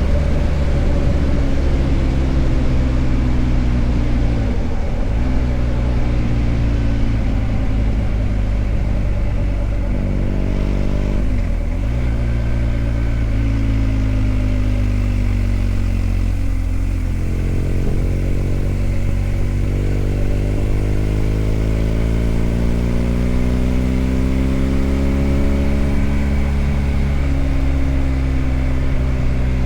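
BMW R1250GS Adventure's boxer-twin engine running under way, its note rising and falling steadily as the revs change, with short breaks in the note about 5 and 11 seconds in.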